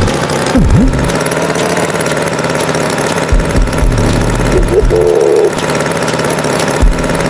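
A tractor engine running steadily, with a couple of short pitched sounds over it, about half a second in and again around five seconds.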